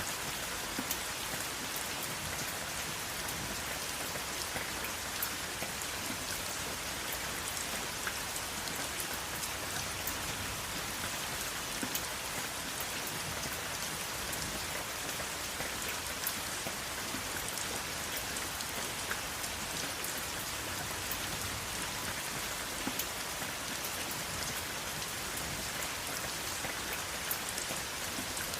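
Steady rain falling on a surface, an even hiss with frequent sharp ticks of individual drops, without thunder.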